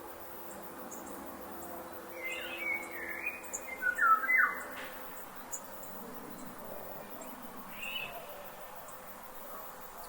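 Birds calling in forest ambience over a steady background hiss: a cluster of short chirping calls about two to five seconds in, and one more short call near the end.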